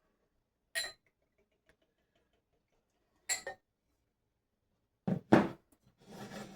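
Glassware knocking and clinking on a hard surface as a glass and a whiskey bottle are handled: two single clinks a few seconds apart, then a louder cluster of knocks about five seconds in, followed by a brief rushing sound near the end.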